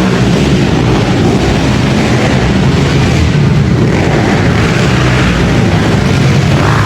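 Pit bike engines running loud and steady, the sound of small dirt bikes racing.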